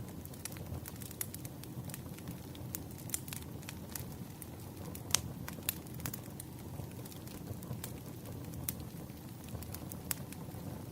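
Wood fire burning: a steady low rumble of flames with irregular sharp crackles and pops, one louder pop about halfway through.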